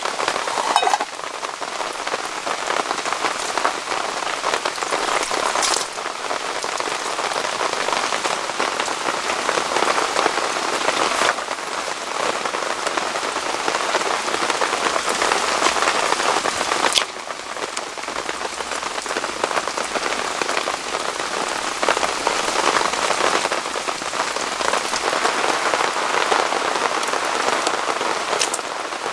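Heavy rain falling steadily, with a few sharper knocks.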